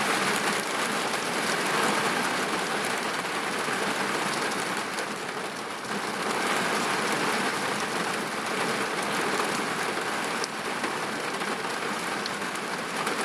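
Steady rain falling and pattering on surfaces, with a few single drops ticking a little louder now and then.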